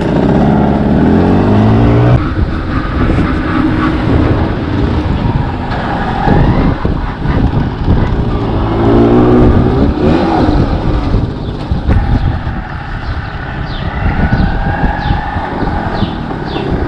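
Motorcycle engine pulling away and accelerating, its pitch rising and breaking off about two seconds in as it shifts gear, then rising again later, over steady riding noise.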